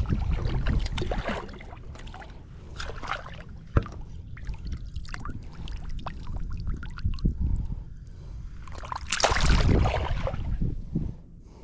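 Water sloshing and lapping around a small fishing boat, with wind rumbling on the microphone. There is a sharp knock about four seconds in, and a louder rush of noise around nine seconds.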